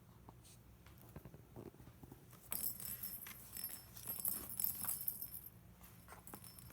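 A cat's toy jingling and rattling as a cat plays with it, starting about two and a half seconds in with scattered light clicks and knocks.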